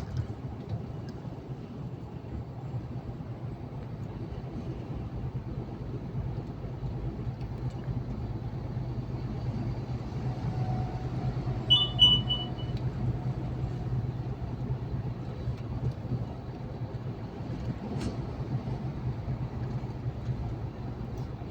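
Truck running on the road, heard from inside the cab: a steady low engine and road drone. About halfway through there is a brief high-pitched tone.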